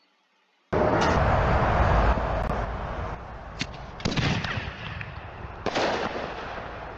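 Consumer artillery shell fireworks (Dragon Slayer canister shells) going off: a loud rush of noise starts suddenly under a second in and fades over about two seconds, then sharp bangs come about three and a half, four and five and a half seconds in.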